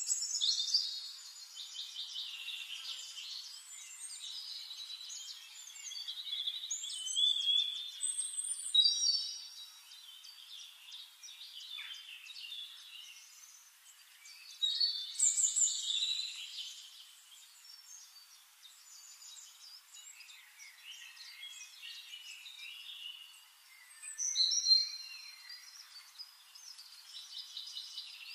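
Songbirds singing, with quick high chirping and trilling phrases that swell into louder bouts every several seconds over a faint steady hiss.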